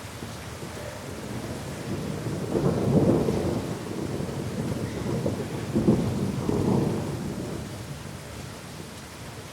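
Thunder rumbling over steady rain: a low rolling rumble builds about two seconds in, peaks twice, around three and six seconds in, and dies away near the end.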